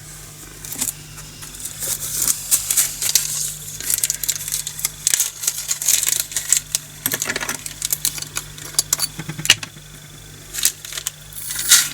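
Rapid clicking and rattling of small plastic diamond-painting drills being handled, with plastic bags and storage containers crinkling and clicking.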